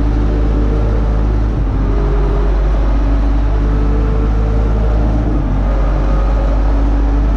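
UTB Universal 650 tractor's four-cylinder diesel engine running steadily under load while pulling a disc harrow, with a heavy low rumble and engine tones that drift slightly in pitch.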